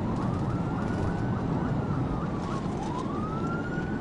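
Police siren in a slow wail, its pitch rising, holding, falling about three seconds in and rising again, over a steady low rumble.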